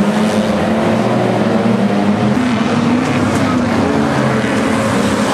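Engines of several banger-racing cars running hard together, a loud continuous drone whose pitch rises and falls a little as the cars rev and lift.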